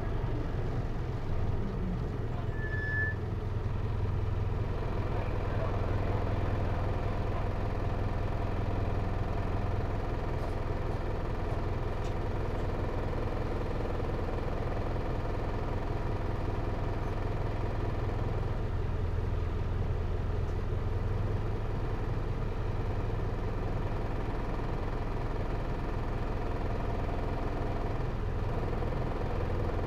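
Hino Liesse microbus's J05C inline-four diesel engine idling steadily at an unchanging pitch, heard from inside the cabin.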